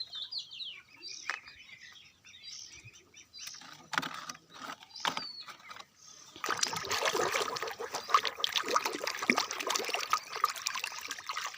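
Birds chirping with a few small clicks, then from about six seconds in a steady splashing and trickling of water as a toy vehicle is washed.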